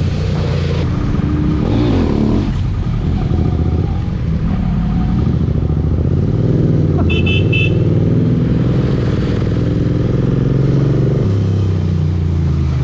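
BMW S1000RR inline-four sport-bike engine running on the move in city traffic, its pitch rising and falling with the throttle. Midway through, a vehicle horn gives three quick toots.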